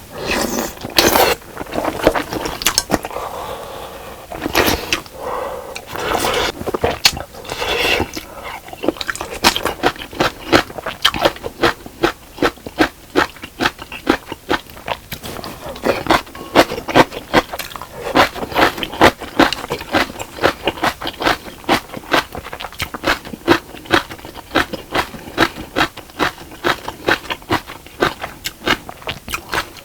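Close-miked eating of spicy fish cake soup: chewing with quick wet smacking clicks, several a second. There are a few longer, louder bites or slurps in the first eight seconds.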